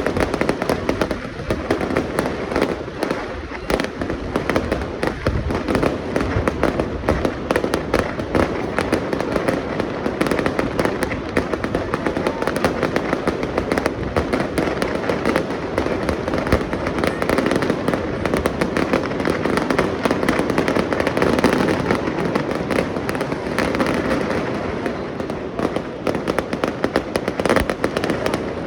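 Fireworks display going off in a dense, continuous barrage of rapid bangs and crackles, with no pause.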